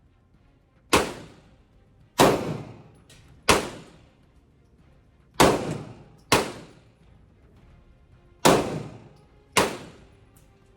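Gunshots: seven single shots spaced unevenly about one to two seconds apart, each with a short echoing tail.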